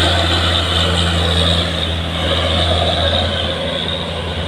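Heavy truck's diesel engine running hard as it climbs a steep grade: a loud, steady deep drone that eases slightly near the end.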